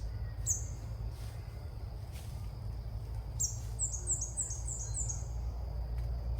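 Small bird calling outdoors: a single high, down-slurred note, then a few seconds later a quick run of about six high descending chips. Under the calls are a steady low rumble and a faint, steady high-pitched tone.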